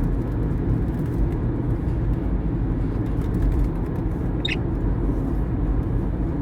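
Steady low road and engine rumble inside a moving car's cabin. One short, high budgerigar chirp about four and a half seconds in.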